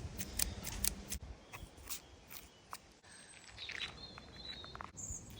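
Faint outdoor background with scattered sharp clicks and a few short, high chirps.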